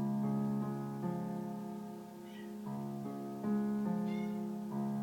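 Piano playing slow sustained chords that change about once a second, with no voice. Two faint short high chirps sound over it, about two seconds in and near the end.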